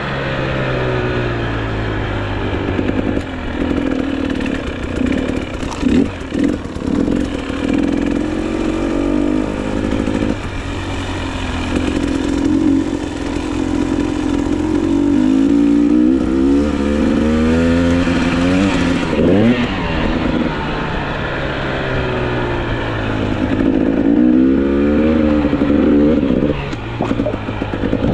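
GasGas EC300 two-stroke enduro motorcycle engine under way, its pitch repeatedly climbing and then dropping back as the rider accelerates through the gears.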